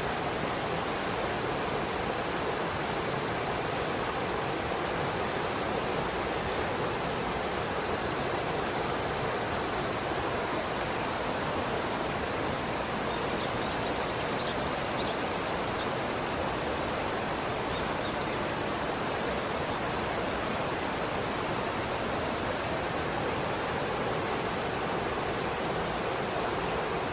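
Steady high-pitched insect chorus over the even rush of flowing water, the insect din swelling slightly partway through.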